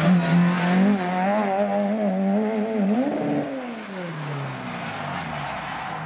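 Rally car engine running hard, its pitch wavering up and down for about three seconds, then rising once and falling away over about a second and a half as the car goes by, after which it runs on more quietly.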